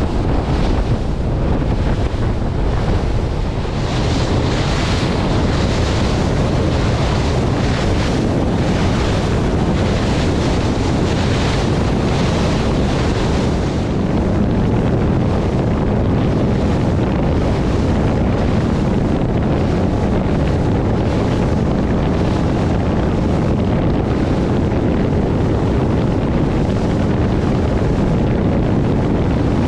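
Strong wind buffeting the microphone over steady rushing water and waves, with gusts coming and going in the first half.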